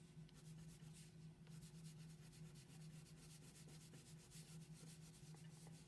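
Faint, quick, repeated scratchy strokes of white coloring being rubbed lightly onto paper to fill in clouds, over a low steady hum.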